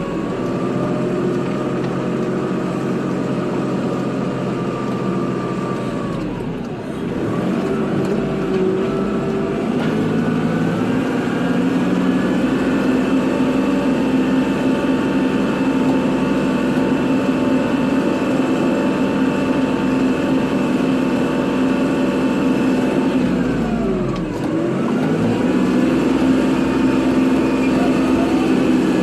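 Kubota tractor's diesel engine running steadily under load. The engine speed dips and climbs back twice, about seven seconds in and again near twenty-four seconds.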